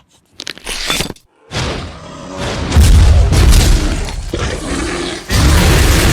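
Loud edited sound effect: a short burst, a moment's silence, then a deep rumbling noise that swells and jumps louder again about five seconds in.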